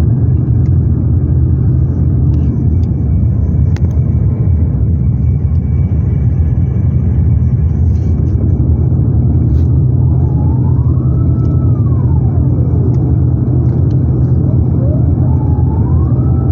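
Loud, steady, low rumble of an Airbus A350-900's engines and airflow heard inside the cabin. From about ten seconds in, tones glide up and down over it, leading into background music near the end.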